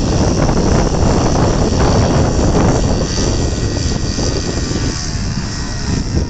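Engine and propeller of a radio-controlled Piper Pawnee model airplane running steadily as it comes in to land, heard as faint tones over heavy wind noise on the microphone.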